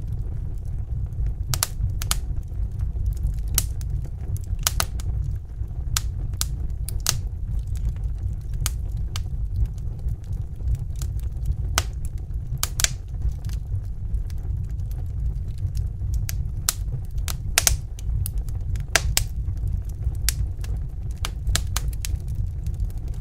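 Wood fire crackling: irregular sharp pops and snaps, several every couple of seconds, over a steady low rumble of burning.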